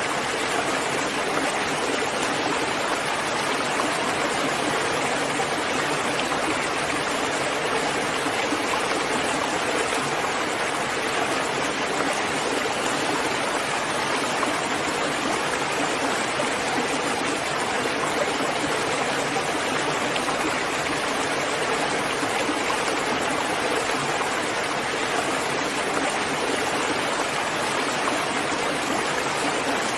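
Steady rain falling, an even continuous hiss that holds level throughout.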